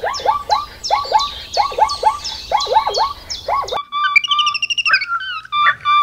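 Chirping bird calls repeated about three times a second, each a quick downward sweep. A little under four seconds in they cut off abruptly and give way to a different, higher warbling twitter.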